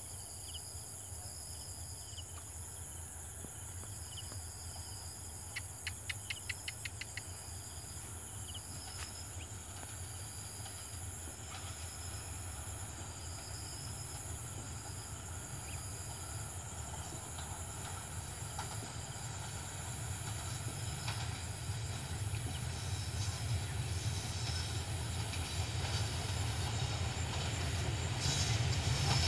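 A train approaching, its low rumble growing steadily louder toward the end, with insects chirping steadily over it. About six seconds in comes a short run of rapid clicks.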